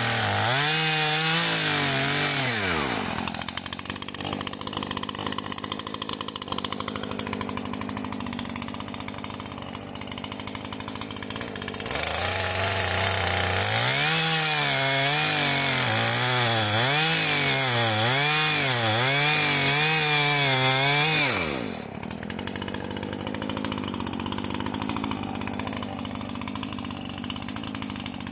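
Small two-stroke engine of a garden power tool, running at high revs, then dropping to a lower, quieter note. About halfway through it is revved again in a quick series of surges, rising and falling roughly every three-quarters of a second, then drops back to the lower note near the end.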